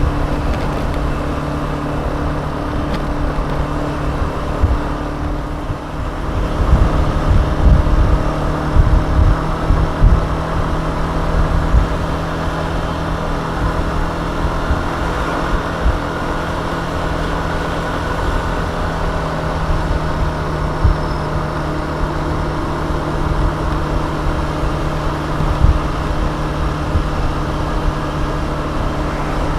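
Suzuki Address 125 scooter's single-cylinder four-stroke engine running at a steady pace while riding, with wind buffeting the microphone in gusts, strongest about seven to ten seconds in.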